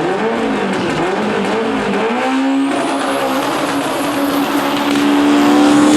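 Race car engine revving up and down, then holding one steady high note, with a thin whine climbing slowly in pitch above it and some tyre noise.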